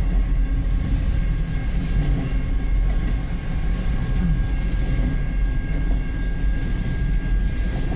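Empty autorack (car-hauler) freight cars rolling slowly past, a steady low rumble with a faint steady high-pitched ring from the wheels.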